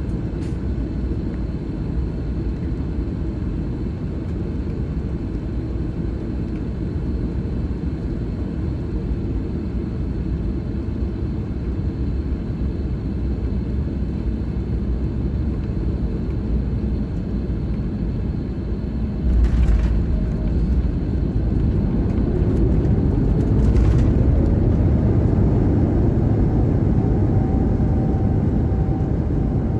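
Airbus A321neo cabin noise, a steady low rumble. About two-thirds of the way through comes a sudden thump, the wheels touching down, and after it a rising engine whine that settles on a steady tone as the engines spool up on the landing roll.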